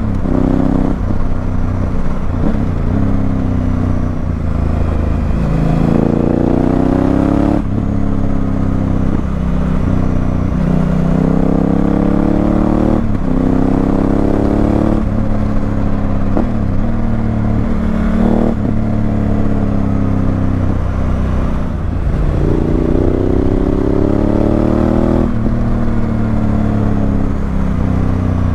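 Honda Africa Twin CRF1000L's parallel-twin engine through a Remus exhaust, accelerating hard through the gears: the engine note climbs, drops sharply at each upshift, then climbs again, about six times over.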